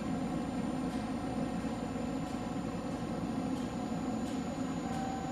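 Steady hum inside a stationary train car, its onboard equipment running while it waits at the platform. A faint steady tone joins in near the end.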